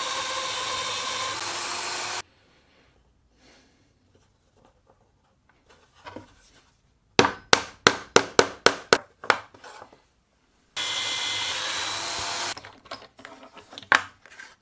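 Electric drill boring into wood, running for about two seconds and stopping, then running again for under two seconds near the end. Between the two runs comes a quick series of about ten sharp knocks, a few a second, and a single sharp click just before the end.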